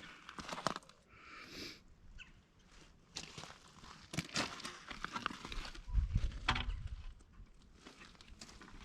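Footsteps and handling noise from someone walking around while filming: scattered light crunches and knocks, with a brief low rumble about six seconds in.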